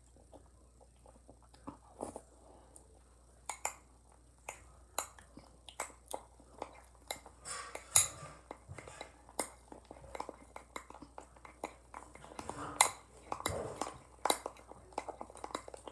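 A spoon clicking and scraping against a dish of ice cream in irregular, sharp knocks, the loudest about a third and four-fifths of the way through, with bursts of chewing.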